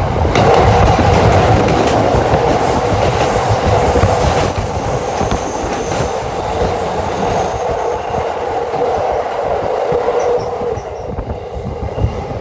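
Green-striped electric commuter train running close past, its wheels and running gear rumbling on the rails, with a steady tone over the rumble that fades out about eleven seconds in.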